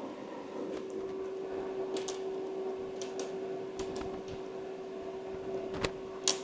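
A steady hum with a few light clicks and knocks scattered through it, the sharpest two close together near the end.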